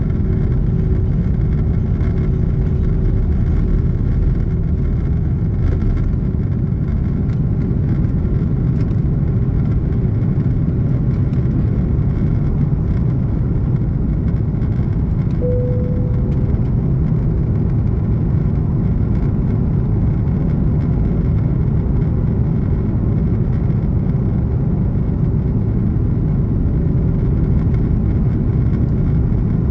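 Steady, loud cabin noise of an Airbus A330-300 airliner, heard from a window seat: a deep, even rush of engine and airflow noise with no change in pitch. A short, soft tone sounds briefly about halfway through.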